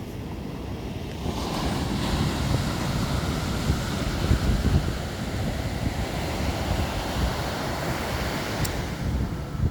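Steady outdoor rushing noise of wind and surf, swelling about a second in, with low rumbling buffets of wind on the microphone.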